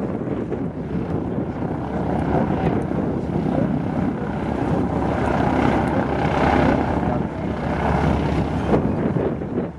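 Piston-engine propeller aircraft flying past, its engine noise swelling about halfway through and then easing off.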